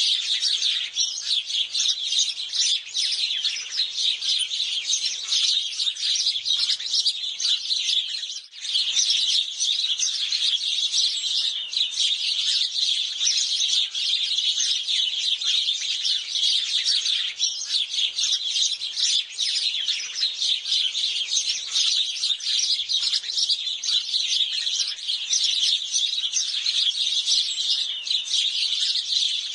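Sparrows chirping, many calls overlapping into a dense, continuous chatter, with a brief lull about eight seconds in.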